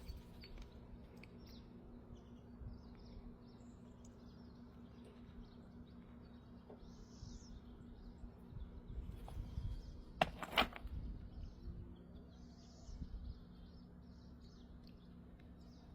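Quiet outdoor ambience: a low steady rumble with faint high bird chirps now and then. Two sharp knocks in quick succession about ten seconds in.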